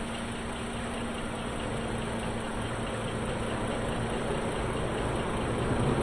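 Lexus ES300's V6 engine idling steadily.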